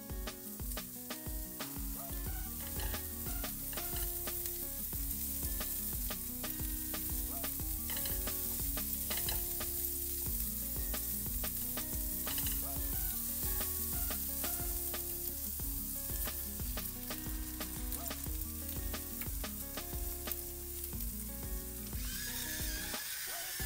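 Shrimp sizzling in hot oil in a nonstick pan, stirred and tossed with a silicone spatula that clicks and scrapes against the pan. Near the end a pepper mill starts grinding over the pan. Soft background music with a bass line plays underneath.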